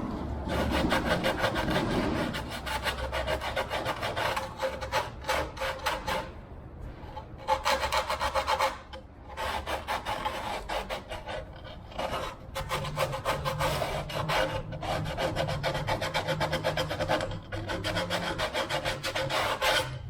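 A wooden fuselage support being shaped by hand with quick back-and-forth abrasive strokes, in several runs broken by short pauses, to trim it to a close fit.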